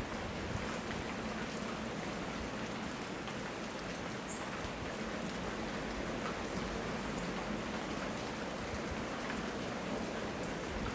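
Steady tropical rain falling, recorded through a smartphone microphone: an even hiss with scattered drop ticks, unchanging in level.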